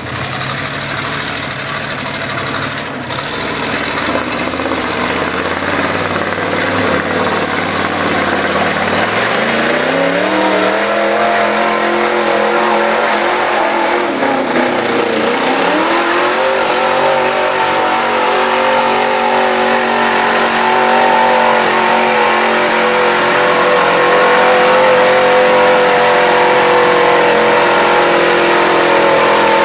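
Mud truck's engine revving up hard about a third of the way in, easing off briefly, then held at high revs and getting louder as it pulls through the mud.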